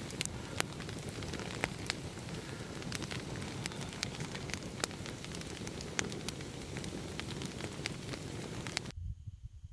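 Wood campfire crackling and popping: a steady hiss with frequent sharp pops. It cuts off suddenly near the end.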